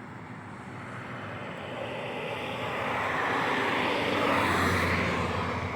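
Shortwave radio static from a Tecsun PL-880 receiver tuned between stations: a hiss that swells towards the middle and then fades back.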